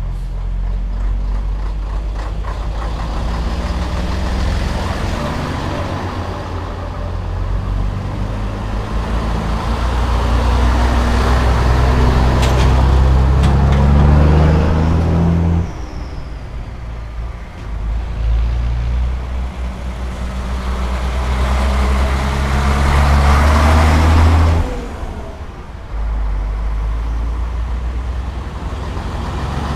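Scania-Vabis Torpedo truck's diesel engine pulling under load, the note rising steadily, then dropping away suddenly about halfway through and again near the end before building up again.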